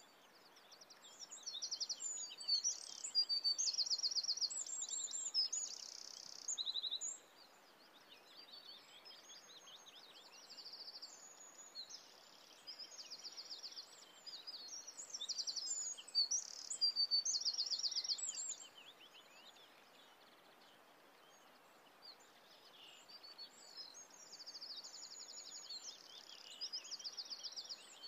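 Birdsong: several small birds singing in rapid trills and chirps over faint steady background noise, louder in the first several seconds and again around the middle.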